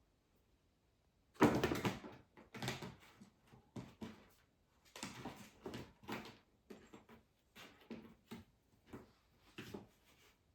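Irregular rustling and light knocks in uneven bursts, the loudest about a second and a half in.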